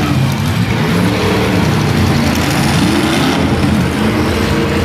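Several destruction derby cars' engines running loud, one revving up partway through, over a steady haze of crowd and arena noise.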